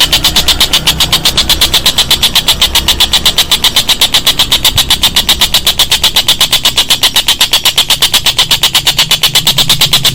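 A rapid, perfectly even train of sharp chirps, about seven a second, high-pitched and loud, with a low hum underneath: a pulsed call from a songbird training recording.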